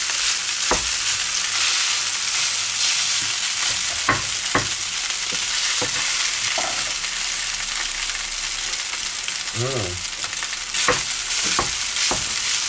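Spätzle sizzling steadily as they pan-roast, with a spatula scraping and clicking against the pan a few times as they are turned.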